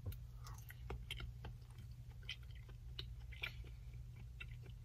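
A person biting into and chewing a mouthful of burrito: faint, irregular soft crunches and mouth clicks.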